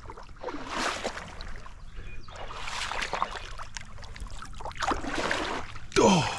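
Water splashing and trickling in irregular bursts at the side of a small boat.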